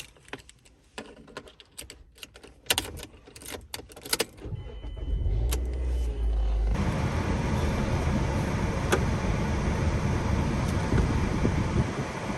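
Keys jangling and scattered clicks as a car is handled, then, from about seven seconds in, the steady rushing hum of the car running.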